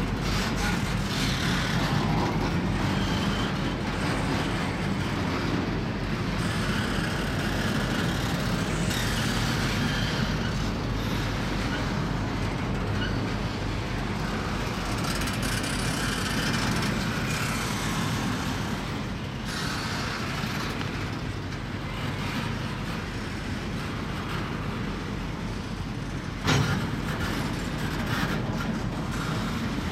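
Norfolk Southern intermodal train rolling past: a steady rumble and rattle of double-stack container cars and trailer-carrying spine cars on the rails, with one sharp bang near the end.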